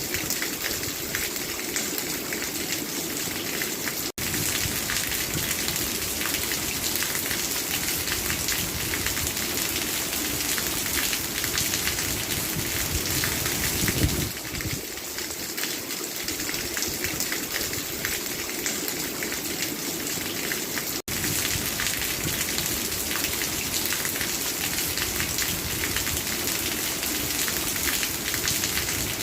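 Steady rain falling, dense and even throughout, cutting out for an instant twice.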